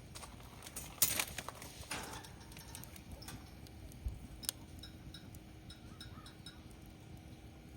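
Firewood burning, crackling with scattered sharp pops over a steady low hiss, the loudest pop about a second in.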